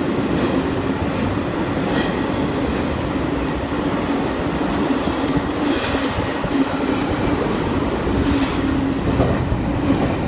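Double-stack container freight train rolling steadily beneath the bridge: a continuous rumble of wheels and cars on the rails. A few sharp clanks stand out, about 2, 6 and 8 seconds in.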